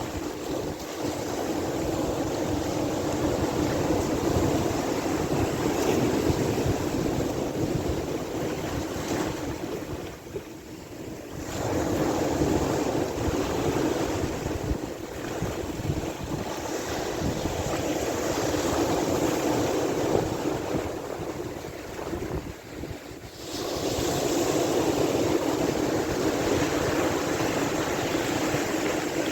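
Sea waves washing and surging: a steady rushing noise with a rough rumble of wind on the microphone underneath. It eases off twice, about a third and about three quarters of the way through, then swells back up.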